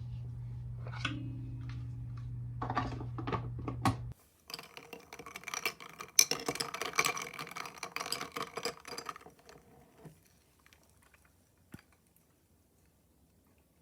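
A steady low kitchen-appliance hum with a few light clicks cuts off about four seconds in. Moments later comes a few seconds of busy clattering and clinking of kitchenware and utensils, fading out after about ten seconds, with one last click near the end.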